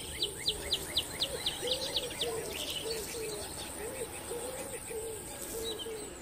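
Birds calling: a low arched call repeated about twice a second, with quick high chirps about five a second over the first two seconds.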